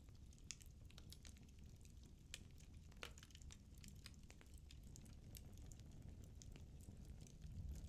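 Firewood burning in a fireplace: faint scattered crackles and pops over a low, steady rumble of the flames.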